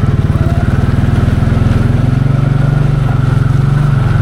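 Can-Am 700 XMR ATV engine running at low trail speed with a steady pulsing exhaust, picking up revs a little about two seconds in.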